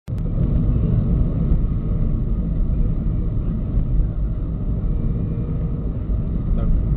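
Steady low road and engine rumble of a moving car, as picked up by a dashcam microphone inside the cabin, cutting in abruptly from silence.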